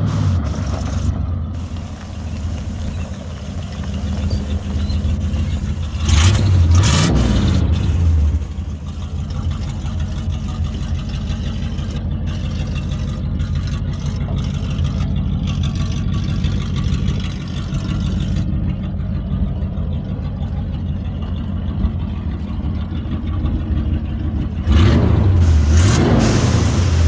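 1980 Chevrolet Silverado 10 4x4 pickup's engine idling steadily, revved up and let back down a few times: right at the start, about six seconds in, and near the end.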